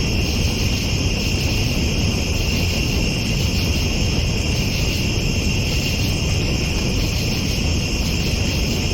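Night insects, crickets, chirring steadily in a continuous high chorus, over a steady low rumble.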